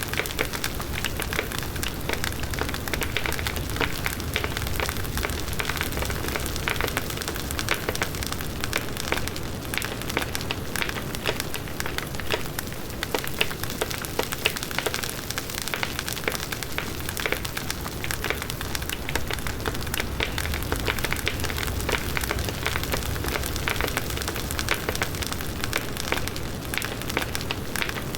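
Bonfire of burning wood crackling with dense, irregular pops over the low rush of the flames.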